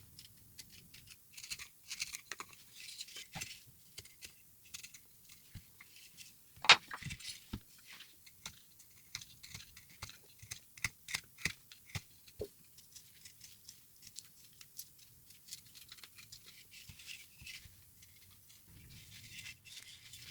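Carving tools cutting into a wooden block: irregular short scraping cuts and clicks as wood is pared away, with one sharp knock about seven seconds in.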